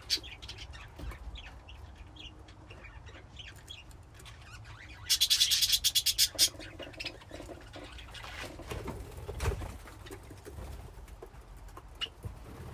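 Budgies in a colony cage chirping on and off. About five seconds in there is a loud burst of rapid, even pulses lasting over a second.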